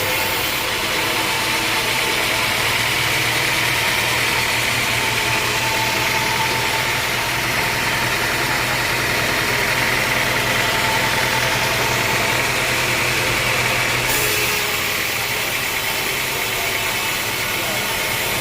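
Engine-driven homemade band sawmill running steadily, with a hiss from the blade that changes about fourteen seconds in.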